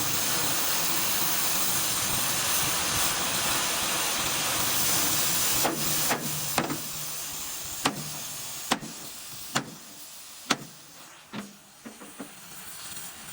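A steady, loud hiss that fades over the second half, with a series of about ten sharp knocks from about halfway through.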